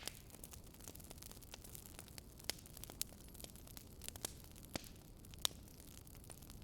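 Wood fire crackling, with irregular small ticks and several sharper pops, over a steady low rumbling background noise.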